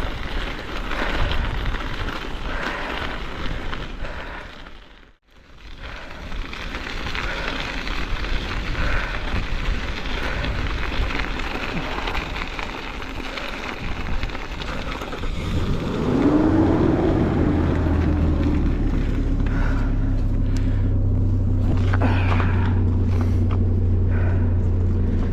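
Strong wind buffeting the microphone during a bike ride into a headwind, a rough, steady rushing noise. Cuts out briefly about five seconds in. From about two-thirds of the way through, a steady, louder low hum with a faint held tone takes over, like an engine running.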